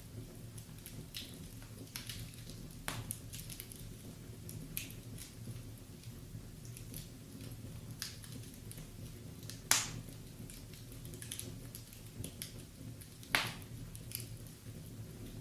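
Wood fire crackling in a fireplace: irregular small crackles and snaps over a low steady hum, with two louder pops near the end.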